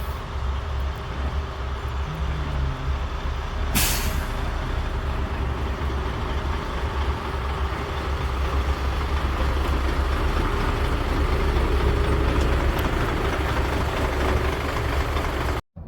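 Heavy diesel engine of a construction machine running steadily, growing somewhat louder later on, with a short burst of air hiss about four seconds in. The sound cuts out abruptly just before the end.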